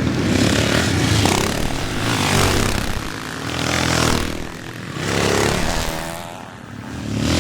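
Classic motocross bikes racing past, engines revving, the sound swelling and fading several times as bikes go by one after another.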